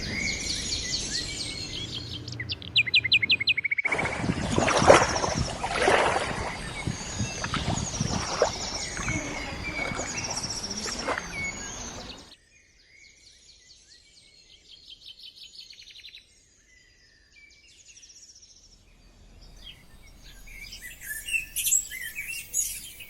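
Several birds singing and chirping, with quick trills and short calls. The sound changes suddenly in level about four seconds in and again about twelve seconds in, quieter for a while before busier chirping near the end.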